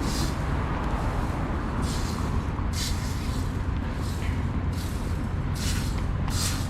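Steady low rumble of street traffic, with short bursts of hiss about once a second.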